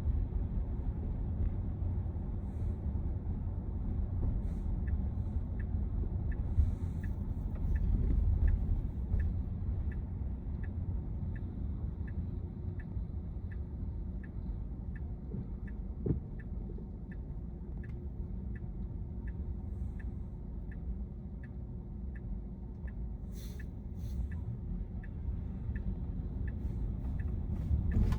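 Steady low road and drivetrain rumble inside the cabin of a Tesla Model Y, with the turn-signal indicator clicking steadily, about two clicks a second, from about five seconds in.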